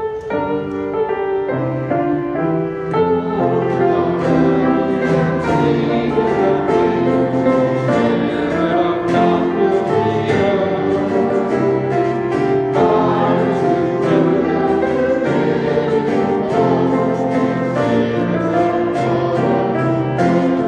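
Choir singing a hymn with instrumental accompaniment, starting right at the outset and continuing steadily.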